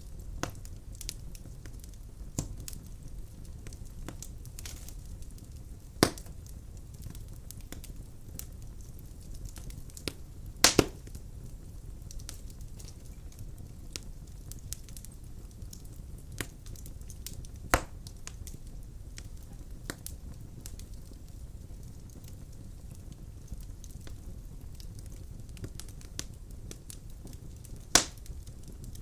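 Wood fire burning in a fireplace: a steady low roar of the flames with scattered crackles and sharp pops, the loudest about 6, 11, 18 and 28 seconds in, the one near 11 seconds a quick double pop.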